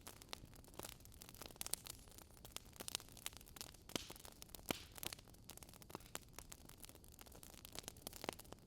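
Wood fire crackling in a fireplace: faint, irregular sharp pops and snaps over a low steady hiss.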